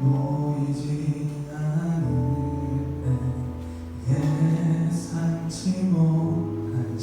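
A slow praise song: voices singing over instrumental accompaniment, with a low bass note held in the middle.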